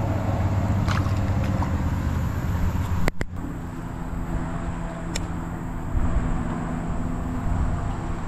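A small motor running steadily with a low hum. It cuts out abruptly about three seconds in and comes back at a slightly different pitch.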